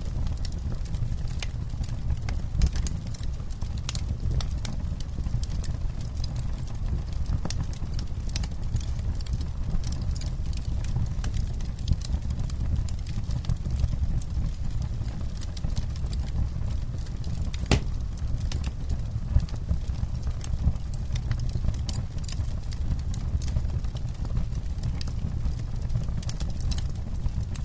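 Campfire crackling, with many small irregular pops and snaps over a steady low rumble; one sharper pop about eighteen seconds in.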